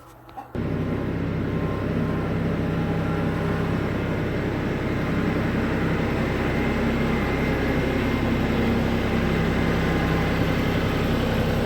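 A vehicle engine running steadily at an even, low pitch, starting abruptly about half a second in.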